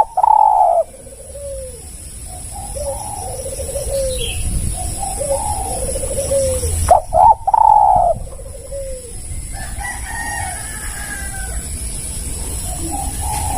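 Spotted doves (tekukur) cooing in repeated rolling phrases, two of them loud and close, near the start and about seven seconds in.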